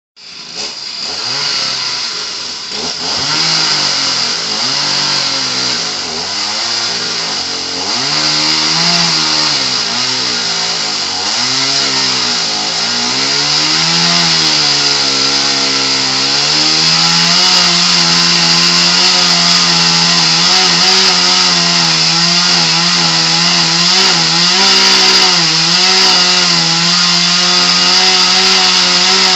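Chainsaw running hard, its engine note repeatedly dipping and climbing back for the first half, then holding a steady high pitch for the rest.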